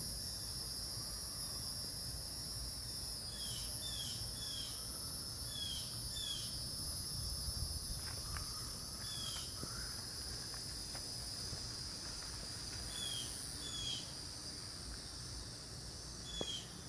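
A steady, high-pitched insect chorus, with about a dozen short falling chirps scattered through it, over a low background rumble.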